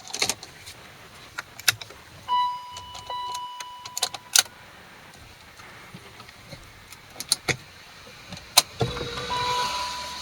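Clicks and knocks from a BMW M5 E39 being readied for a cold start: keys and switches, with a steady electronic chime that sounds for about two seconds. A loud click comes near the end, followed by a steady whine.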